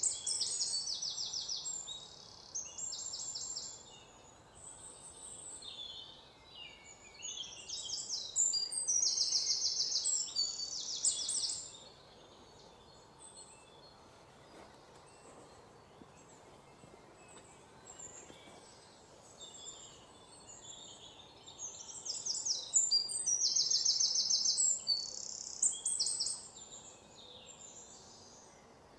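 Small songbirds singing in bouts of fast, high trills and chirps: one at the start, another about eight seconds in, and a third a few seconds before the end, with softer scattered chirps between.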